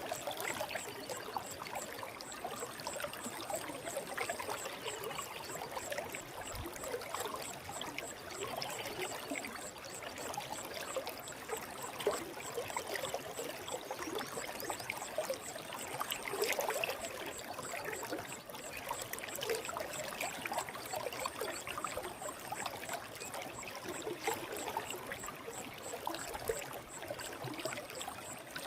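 Forest stream flowing over rocks: a steady rush of water with constant small trickles and splashes.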